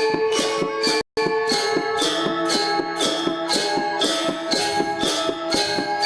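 Balinese gamelan gong ensemble playing a classical lelambatan piece: bronze metallophones and gongs ring sustained tones under fast, regular metallic strokes. The audio cuts out for a split second about a second in.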